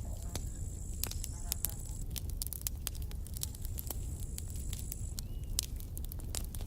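Campfire of burning wood crackling and popping in frequent sharp snaps over a steady low rumble of flame. A thin high whistle comes and goes twice.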